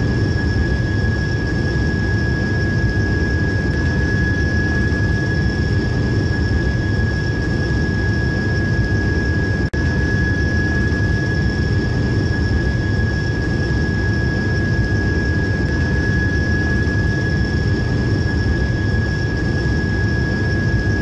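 Train running: a steady, unbroken low rumble with a constant high-pitched whine over it, briefly cutting out about ten seconds in.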